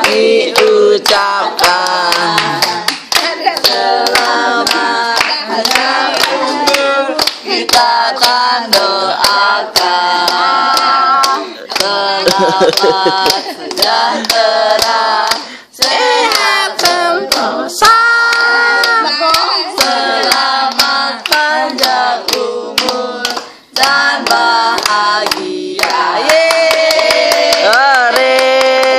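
A small group singing a birthday song together, clapping along to a steady beat. The song breaks off briefly twice.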